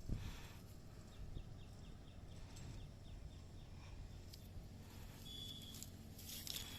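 Outdoor ambience with a low steady rumble. A thump comes right at the start, then a rapid series of short, falling high chirps, about six a second, lasts for about two seconds. A few brief high tones and clicks follow near the end.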